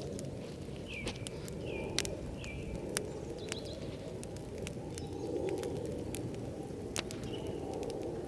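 Birds calling outdoors: three short, high chirps in quick succession early on, and a dove cooing low and soft around the middle, with scattered sharp clicks throughout.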